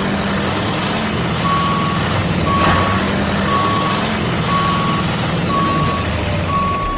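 Truck reversing alarm beeping about once a second over a steady engine rumble, starting about a second and a half in. There is a short hiss about three seconds in.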